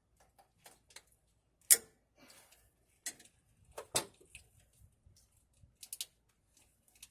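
Irregular metallic clicks and taps of hand tools working at a spring hose clamp on a coolant hose, with two sharper clacks a couple of seconds apart.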